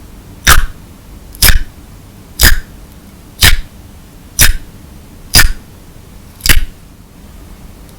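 Clear slime with colourful crystal beads being handled, making seven short crunches about a second apart.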